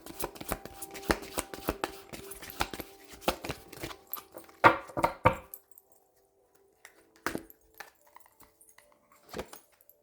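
Tarot cards being shuffled by hand, a rapid run of papery clicks and flicks for about five seconds. This is followed by two single taps, a couple of seconds apart, as cards are set down.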